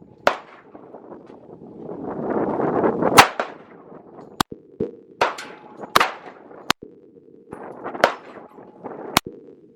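Handgun shots fired one at a time at irregular intervals, about eight sharp cracks of varying loudness.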